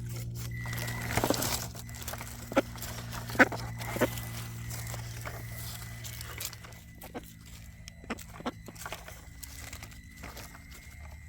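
Electric motor and geared drivetrain of a Traxxas TRX-4M rock crawler whining steadily while it crawls over rough ground, with scattered sharp clicks and knocks. The throttle is being bumped because the truck stalls on obstacles: its larger tires leave the stock gearing short of torque.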